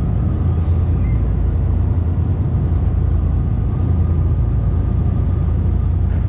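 Steady low engine drone of a moving vehicle, an even rumble with no breaks.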